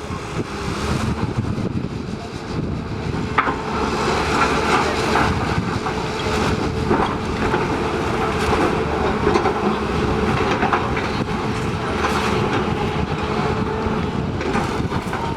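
Steady mechanical rumble of a running machine or vehicle, with rattling and knocking and a faint steady hum.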